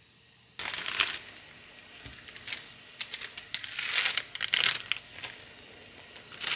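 Packaging crinkling in irregular bursts as it is handled, starting about half a second in.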